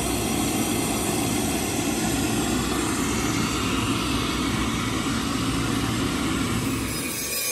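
A machine's motor running steadily, with its sound changing abruptly near the end.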